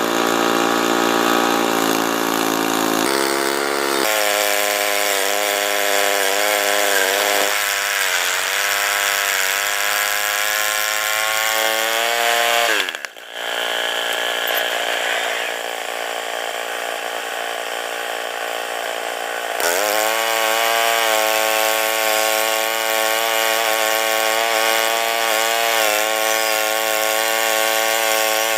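Portable sawmill's small gasoline engine running at high speed, its pitch sagging and recovering as if under load from a cut. The sound breaks off abruptly about halfway through and returns louder a few seconds later.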